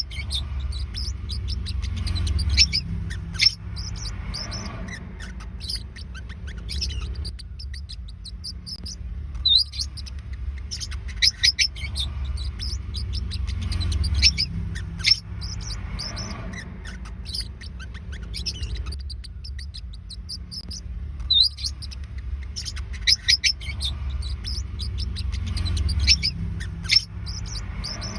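Forpus parrotlets chirping: rapid runs of short, high-pitched chirps that come in bursts every few seconds, over a steady low hum.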